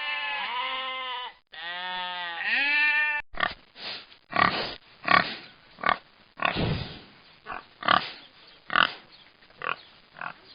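A sheep bleating in two wavering calls, then a pig grunting: about a dozen short, rough grunts, irregularly spaced.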